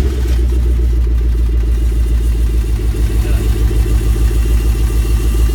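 1991 Lincoln Town Car's 4.6-litre V8 idling steadily just after starting, heard close to the exhaust, with an even low pulsing.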